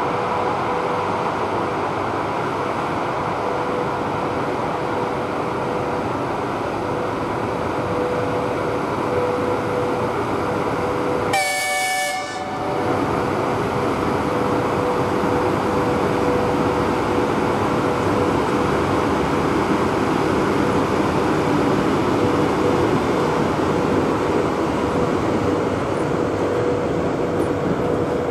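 A train running with steady, loud noise and a steady hum. Near the middle a short horn blast of about a second sounds.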